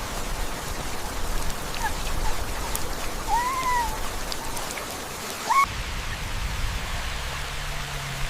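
Steady rain with puppies whimpering: a faint short whine about two seconds in, a longer whine that rises and falls around three and a half seconds, and a short rising yelp at about five and a half seconds. After the yelp a low steady rumble sets in under the rain.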